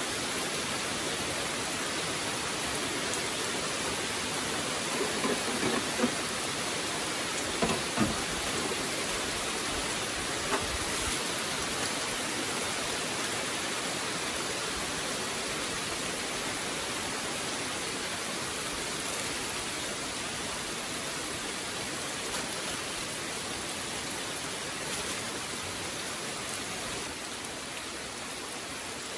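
Steady rain falling, an even hiss. Over it, in the first ten seconds or so, come a few short knocks and clatters of kitchen things being handled at the table.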